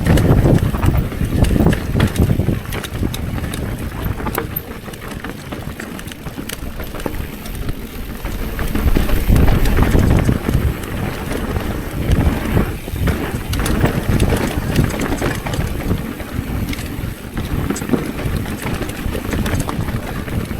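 Wind buffeting the microphone while a mountain bike rolls over rough ground, with scattered knocks and rattles from the bike; the rush swells and eases, loudest about a third to halfway through.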